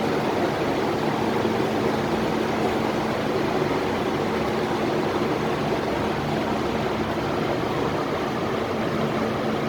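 Steady noise inside an MTR K-stock electric train carriage: an even rumble and hiss with a constant low hum underneath.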